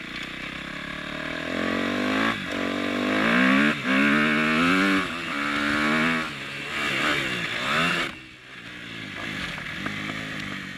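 2010 Kawasaki KX250F's single-cylinder four-stroke engine accelerating hard, the pitch climbing and then dropping back with each of several gear changes. About eight seconds in the throttle closes and the engine falls back to a lower, quieter run.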